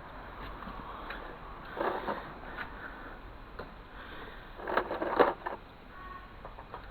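Two short bursts of scraping and clinking, as of metal objects being handled, about two seconds in and again around five seconds in.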